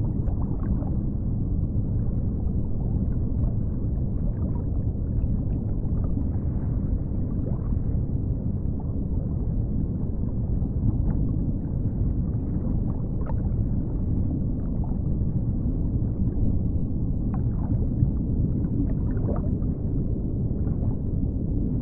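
Steady low underwater rumble, with a few faint gurgles and ticks.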